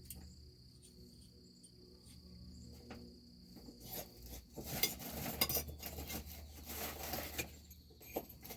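Small steel brake parts, washers and plates, clinking and knocking together as they are handled, mostly in the second half. A steady high insect-like tone runs underneath.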